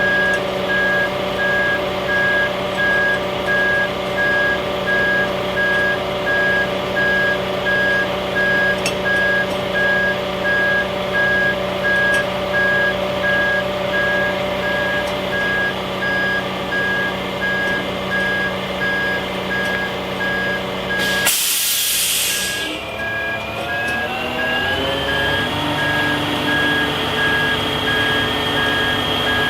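Kenworth T880 truck's reverse alarm beeping about once a second over its idling diesel engine. About two-thirds of the way through comes a short, sharp hiss of released air, and then the engine speeds up and holds at a higher speed.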